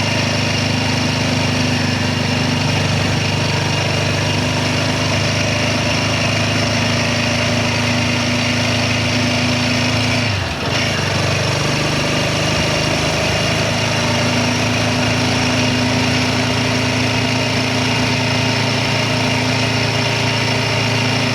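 Royal Enfield Guerrilla 450's single-cylinder engine running at a steady speed under way. About halfway through, its note briefly drops in pitch and loudness, then picks back up.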